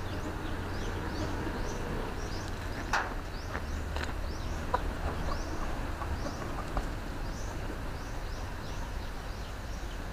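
Small birds chirping over and over, short high chirps a few times a second, with a few light clicks in between.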